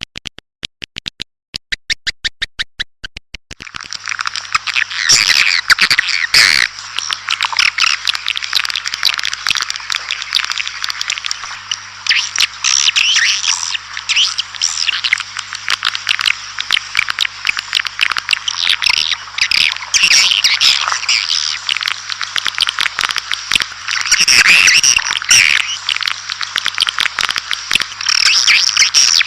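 A rapid train of evenly spaced clicks for the first few seconds. Then a dense, continuous chorus of swiftlet chirps and twitters, many birds calling at once, from a recorded swiftlet lure call of the kind played to draw swiftlets into a nesting house.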